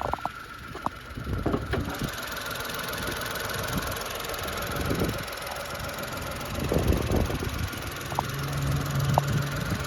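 Honda Life kei car's 660 cc three-cylinder engine idling steadily.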